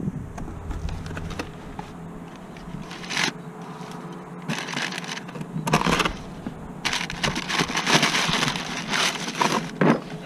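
Irregular scraping and crackling noises from hand work, in bursts that grow busier after about seven seconds, over a faint steady low hum.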